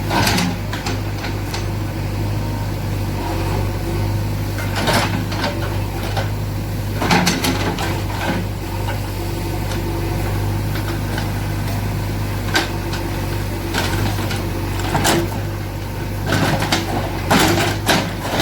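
JCB 3DX backhoe loader's 76 hp diesel engine running steadily, with occasional sharp knocks from the machine at work.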